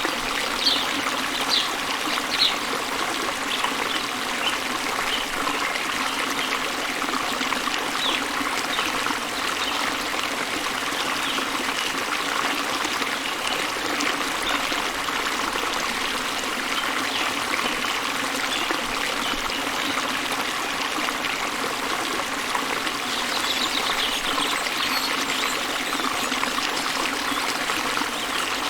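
Waterfall rushing steadily, with short high bird chirps in the first few seconds and again near the end.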